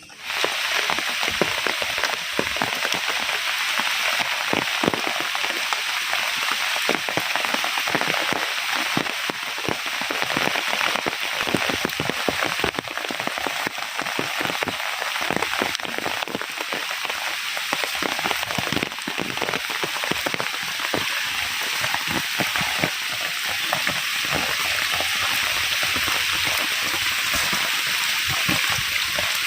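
Heavy rain falling steadily: a dense, even hiss of countless drops pattering on surfaces. It starts abruptly and holds.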